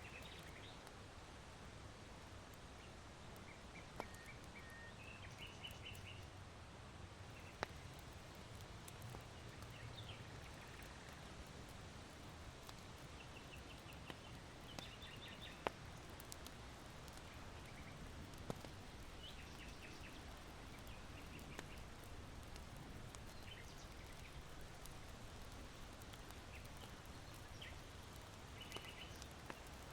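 Faint steady wind hiss with small birds chirping in short runs of quick repeated high notes, now and then, and a few sharp pops from the charcoal of an irori hearth fire.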